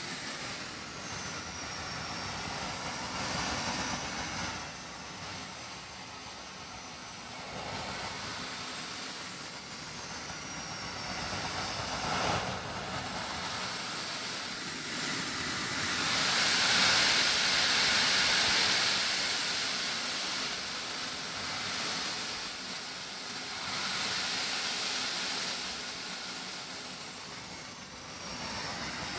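Small RC model jet turbine engine running, its very high whine rising and falling several times as the throttle is worked up and down over a steady rushing hiss.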